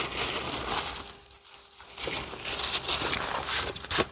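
A person chewing a mouthful of burger close to the microphone, with a run of small clicky mouth sounds. It eases off about a second in, then grows busier toward the end.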